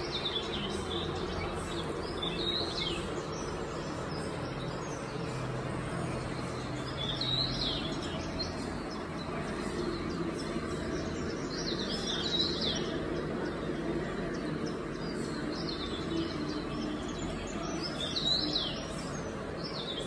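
Birds chirping: short clusters of quick chirps repeating every few seconds over a steady background noise with a faint low hum.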